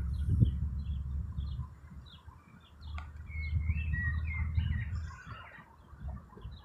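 Birds chirping: a quick series of short high chirps, then a warbling song phrase about halfway through. A low rumble runs underneath, with a single sharp click about three seconds in.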